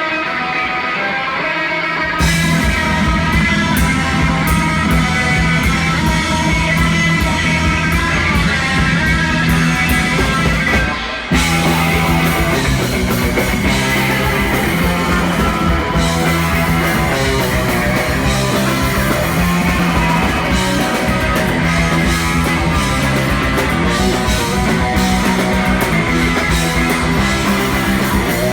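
Punk rock band playing live: electric guitar alone, then the drums and bass crash in about two seconds in. The band stops for a moment near the middle, then comes back in at full volume.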